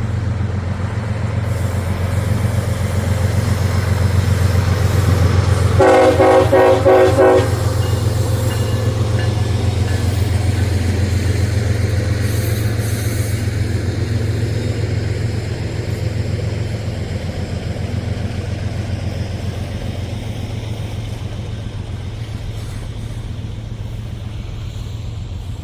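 Freight train passing with a steady low rumble that swells and then slowly fades. A locomotive horn sounds once for about a second and a half, about six seconds in.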